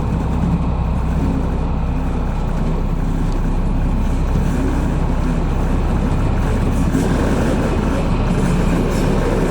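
Class 218 diesel-hydraulic locomotive's engine running with a steady low drone, growing somewhat fuller about seven seconds in.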